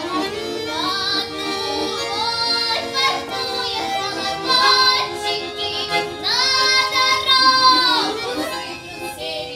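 A girl singing a Russian folk song with vibrato over an instrumental accompaniment. Near the end she holds one long note for about two seconds before the phrase fades.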